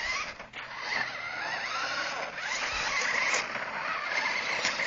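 Radio-controlled car's electric motor whining, its pitch rising and falling repeatedly as the throttle is worked.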